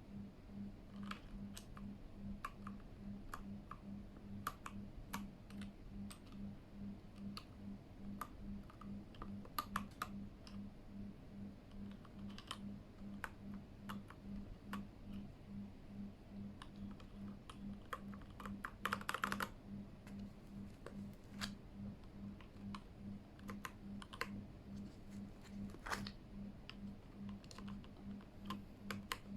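Plastic keycaps being handled and pressed onto the switches of a Keychron K8 mechanical keyboard: irregular sharp clicks and taps, with a short clatter about two-thirds of the way through. A faint low hum pulses steadily underneath.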